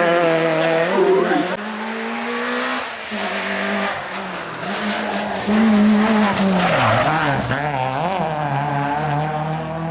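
Rally car engine revving hard, its pitch climbing and dropping again and again through gear changes and lifts, heard over a few short passes that change abruptly.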